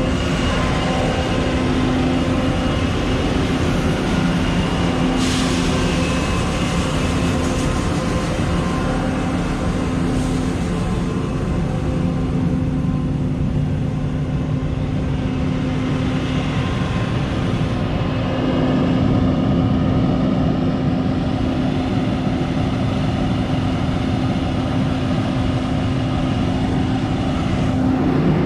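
Large vehicle engine running steadily at a constant speed, a steady hum over rushing noise.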